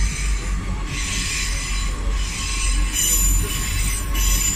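Train wheels squealing against the rails as a train runs through the station. High squeals come and go in patches over a low rumble, with a steady whine beneath.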